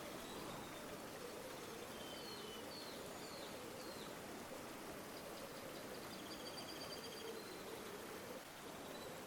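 River water flowing steadily, with small birds calling over it: a few short chirps about two seconds in, then high trilled notes from about five to eight seconds.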